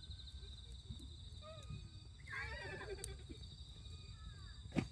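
Insects, crickets chirring steadily in a high, rapidly pulsing trill, with distant voices of people for about a second midway and one sharp click near the end.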